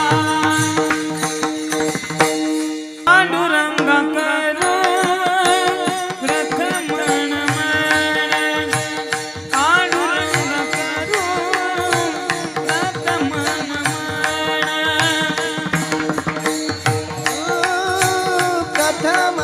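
Warkari bhajan singing: a man's voice in long, ornamented melodic phrases over a steady held harmonium drone, with a hand drum and small hand cymbals (taal) beating time.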